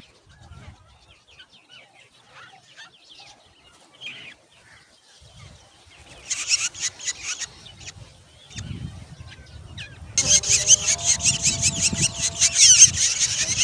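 Black drongo nestlings begging for food: scattered faint calls, then bursts of rapid, raspy begging calls about six seconds in, swelling into loud, continuous, rapid begging about ten seconds in.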